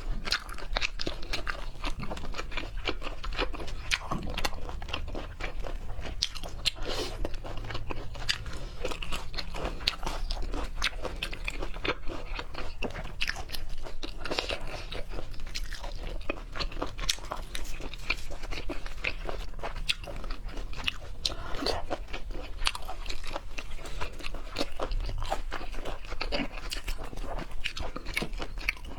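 Close-miked chewing and biting of seafood: a continuous, dense run of small crisp crunching clicks.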